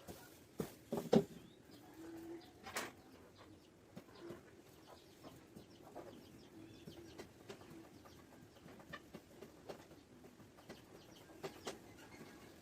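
Faint cooing from a dove-like bird in the background, with scattered light clicks and taps throughout; the sharpest taps come about a second in and again near the end.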